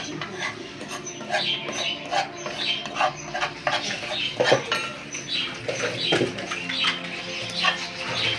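Kitchen utensils clinking and scraping against a dish in quick, irregular strokes.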